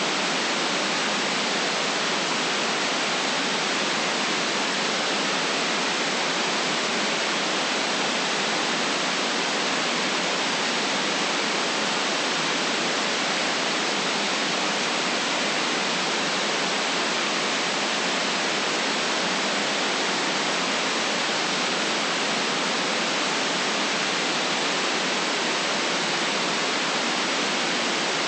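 Steady white noise: an even, unchanging hiss with no deep bass and nothing else in it.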